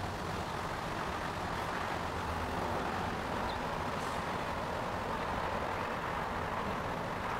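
A steady rumble of vehicle noise with no distinct events.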